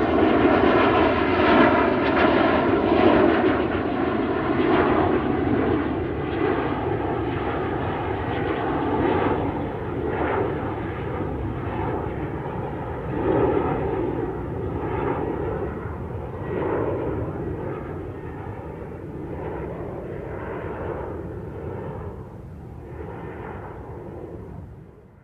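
Aeroplane flying overhead, a steady engine drone that is loudest at first and slowly fades as it moves away, then cuts off abruptly at the very end.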